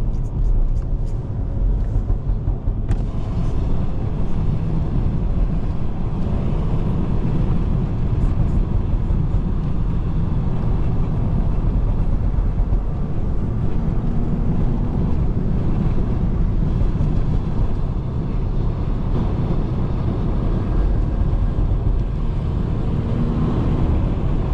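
BMW 540i sedan driving on a wet road: a steady low engine and road rumble with the hiss of tyres on wet pavement. The hiss grows louder about three seconds in and then holds.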